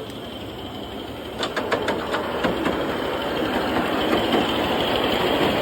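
A 5-inch gauge live steam 4P locomotive hissing steam; about a second and a half in it grows louder with a quick run of sharp beats, then goes on as a steady rush of steam.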